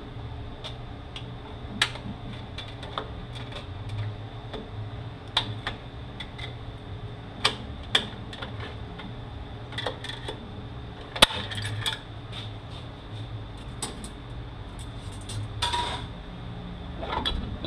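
Hand tools and steel transmission parts clicking and clinking during teardown of a 5-45RFE automatic transmission, likely while its snap ring is worked out ahead of removing the center support. The light metallic clinks are scattered and irregular, with a longer scrape near the end, over a steady low hum.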